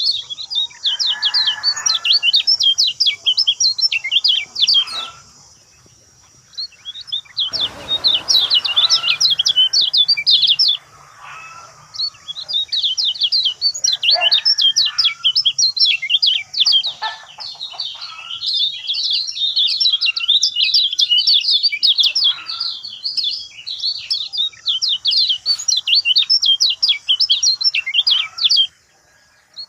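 Lemon-bellied white-eye (kecial kuning) singing a rapid, high chattering song of quick chirps, in long runs broken by a few short pauses.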